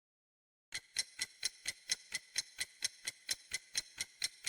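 Clock-ticking sound effect, even sharp ticks at about four a second, starting just under a second in after dead silence.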